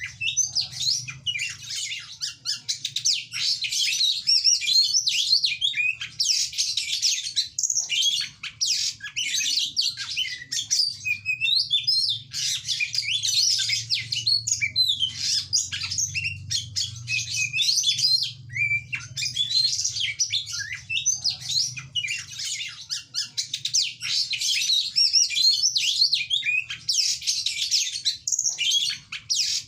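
Oriental magpie-robin (kacer) in full song: a rapid, unbroken stream of varied chirps, whistles and trills with only brief pauses.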